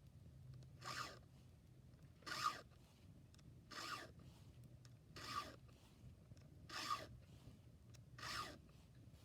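Chainsaw chain being sharpened with a file: six even strokes across the cutters, about one every second and a half.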